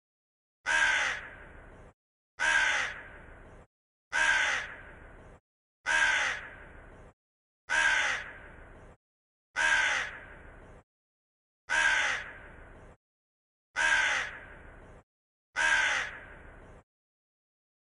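Crow cawing: nine matching caws at an even pace, about one every two seconds, each slightly falling in pitch.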